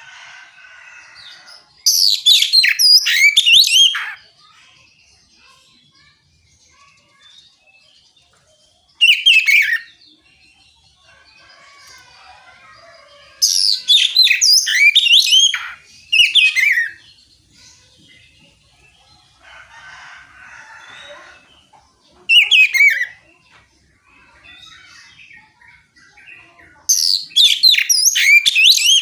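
Oriental magpie-robin singing its loud, open song: six bursts of rapid, varied, high whistled and sliding notes, each one to two seconds long, with short pauses between them.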